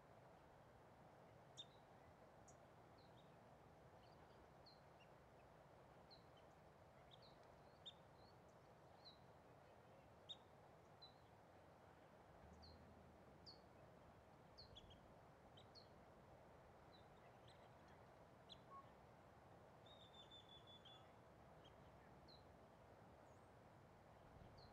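Faint, scattered short high chirps of small birds, coming irregularly about once a second, with one brief trill late on, over a low steady background hiss.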